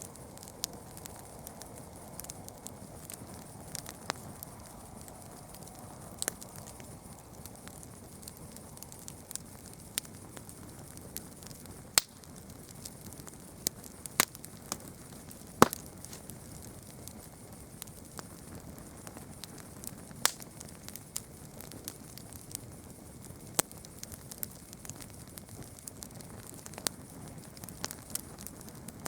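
Campfire crackling: a steady low hiss of burning wood with frequent sharp pops and snaps, a few of them much louder than the rest.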